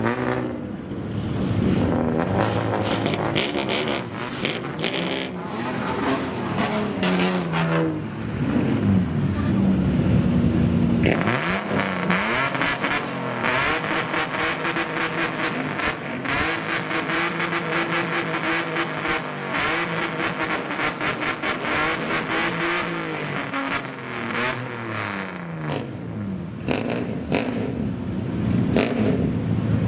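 Engines of custom kaido racer classic cars revving and driving by, their pitch rising and falling again and again.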